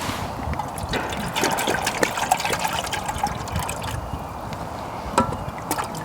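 Liquid trickling as it is poured into a small camping stove setup, with a few light knocks and clicks, the sharpest one near the end.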